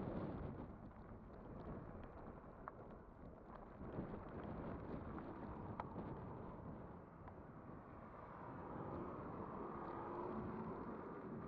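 Riding noise from a Kugoo Kirin V5 e-bike on the move: tyre and road rumble with wind buffeting the microphone and scattered small rattles and clicks. From about eight seconds in a faint whine comes in, rising a little in pitch.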